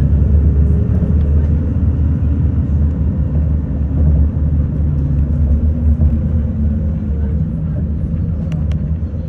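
City bus engine running and the bus rumbling along while driving, a steady low drone with a faintly shifting engine hum. A few light clicks near the end.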